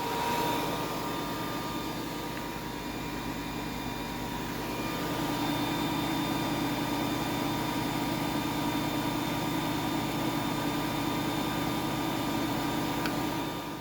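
Vintage Lady Sunbeam bonnet hairdryer's fan motor running steadily, blowing a gentle warm air flow, with a constant hum that grows slightly louder about five seconds in.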